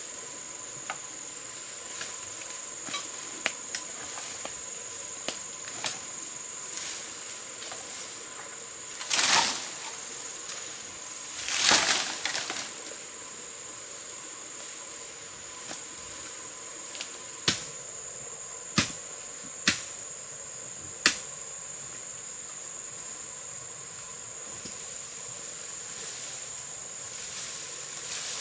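A steady high-pitched insect drone runs throughout. Sharp knocks come at irregular intervals, four of them close together a little past halfway, along with two brief rustling bursts at about a third of the way and near the middle.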